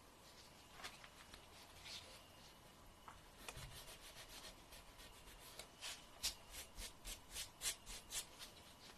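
A fingernail being filed in short scraping strokes: a few scattered strokes at first, then a faster, even run of about three strokes a second through the second half.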